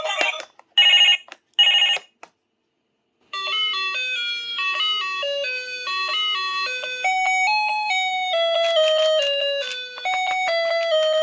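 Two short, loud, buzzy electronic tones, a pause, then a bright chiming electronic melody of single notes stepping up and down, like a doorbell or ringtone tune.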